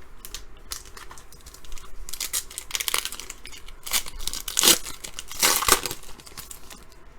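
A trading-card pack wrapper being torn open and crinkled: a run of crackly rips and rustles, loudest in the middle.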